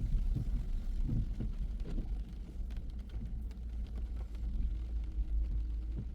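Low, steady rumble of a car driving, with irregular small knocks and bumps from the road.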